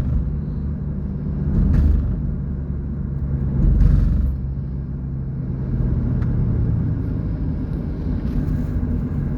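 Car engine and road noise heard from inside the cabin while driving, a steady low rumble with two brief louder swells, about two seconds in and about four seconds in.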